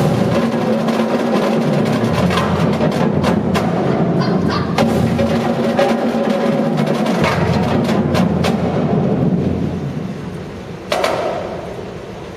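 Marching drumline playing a dense percussion passage of many rapid drum strokes. It eases off a little, then one loud accented hit comes about eleven seconds in and rings on as it fades.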